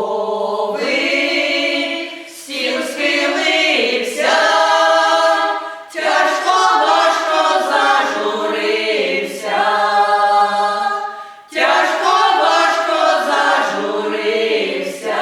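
Ukrainian folk vocal ensemble singing unaccompanied in several voices, in long held phrases with brief breaks between them, about every four to five seconds.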